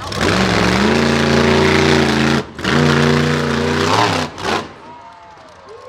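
Monster truck engine running hard at high revs, cutting out briefly about two seconds in, coming back on, then easing off for a final short blip before dropping much quieter near the end.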